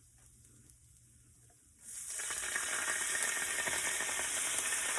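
Chicken stock poured into a hot pan of shrimp: after a near-silent start, a loud sizzle starts suddenly about two seconds in and carries on steadily.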